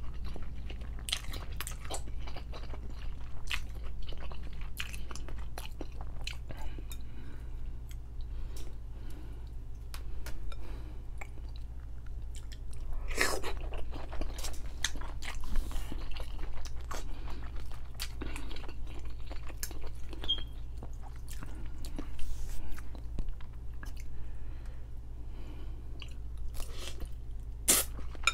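Close-up mouth sounds of a person chewing and eating noodles with sausage and egg: repeated wet smacks and clicks, over a steady low hum.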